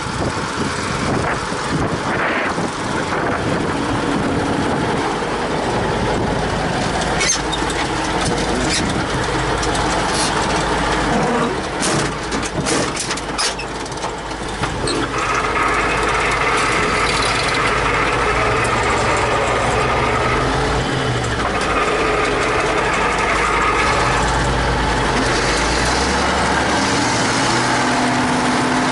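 T-150K tractor's diesel engine running, with a run of sharp clicks and knocks in the middle; from about halfway the engine settles into a steady, even drone.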